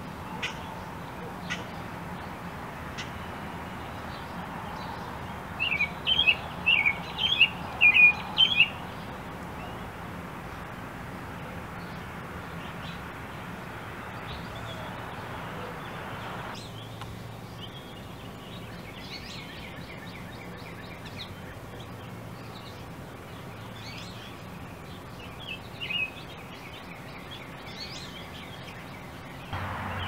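Small songbird calling: a quick run of about eight sharp chirps from about five to nine seconds in, then a few faint chirps later, over a steady background hiss.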